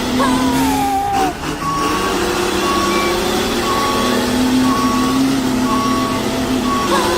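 A high electronic beep repeating about once a second, like a reversing alarm, over a steady motor hum; a falling whistle-like tone comes near the start.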